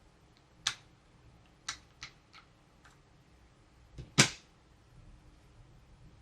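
A handful of sharp, irregular clicks and taps from toys and packaging being handled, the loudest a quick double click about four seconds in.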